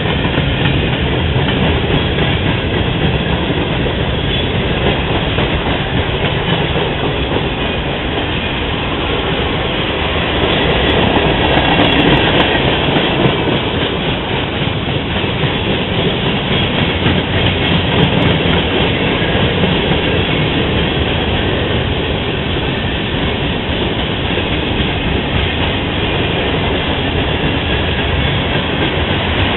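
Freight train rolling past, the steel wheels of its cars running steadily on the rails, a little louder around the middle.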